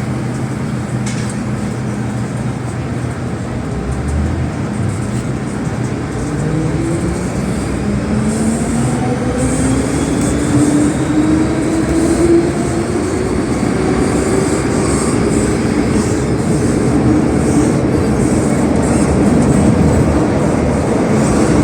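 MTR M-Train (Hong Kong Island line stock) pulling away, heard from inside the car: the traction motors give a strong whine that rises steadily in pitch as the train accelerates, over the running noise of the wheels on the rails.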